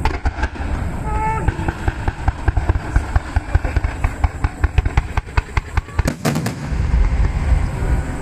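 Fireworks finale barrage: a rapid run of sharp bursts and crackling reports, several a second, that gives way to a continuous low rumble of booms near the end.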